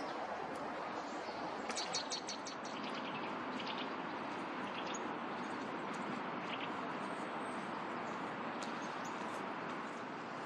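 Small songbirds chirping over a steady background hiss: a quick run of high chirps about two seconds in, then scattered single calls.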